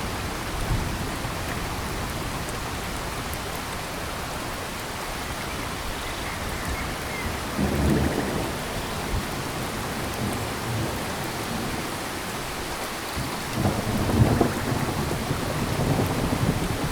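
Steady rain falling in a tropical forest, with low rumbles swelling about eight seconds in and again from about fourteen seconds on.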